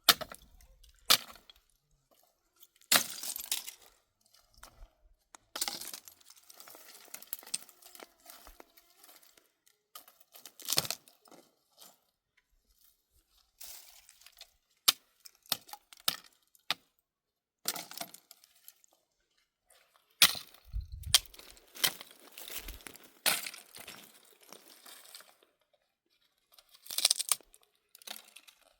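Dry brushwood being snapped and handled: irregular sharp cracks and crackling rustles, separated by short quiet gaps.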